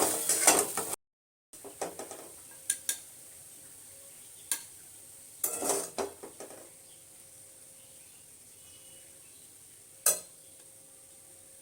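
A metal spatula scrapes and clatters in a pan as fried vegetables are served out. After that come scattered clinks of utensils against pans and dishes, with one sharp clink near the end.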